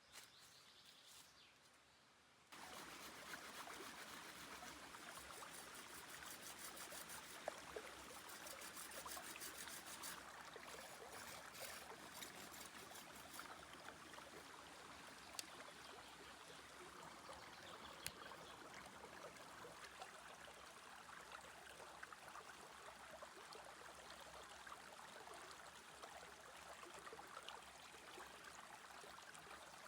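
Faint trickling water, running steadily after starting abruptly about two and a half seconds in, with a few sharp clicks.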